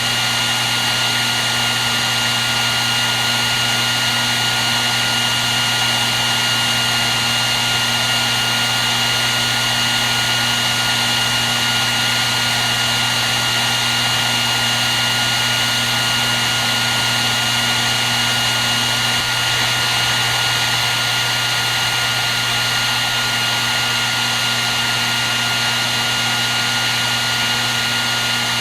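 Hair dryer running steadily: a constant rush of blown air with a steady high-pitched motor whine and a low hum, unchanging throughout.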